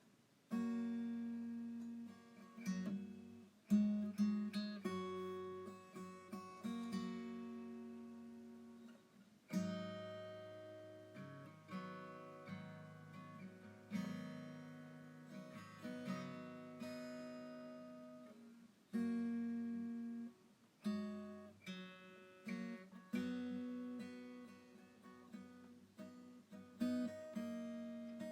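Background music on acoustic guitar: strummed chords, each ringing out and fading before the next.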